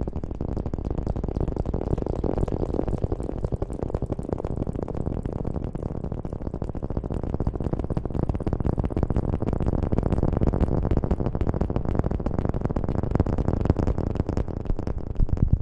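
Close-up rubbing and rustling right on the microphone, a continuous run of soft, rapid crackles heavy in the low end, as in ASMR hair-washing.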